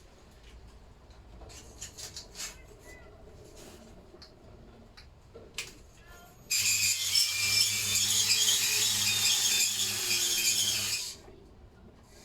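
Cordless drill spinning a cylinder hone in a Lister D engine's cast-iron bore: a steady motor hum under a harsh high hiss, starting abruptly about six and a half seconds in and stopping about four and a half seconds later. Before it, light clicks of the tool being handled.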